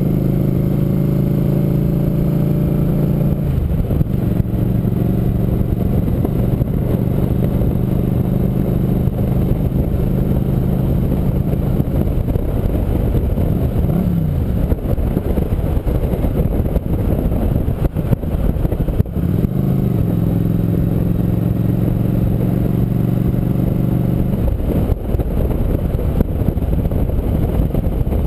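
Motorcycle engine running at a steady speed during a ride, mixed with wind and road noise. The even engine note gives way to rushing noise from about twelve seconds in, and is back steady for a few seconds after about twenty seconds.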